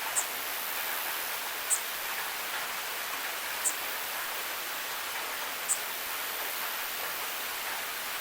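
Steady rain hiss, with a short high-pitched tick about every two seconds.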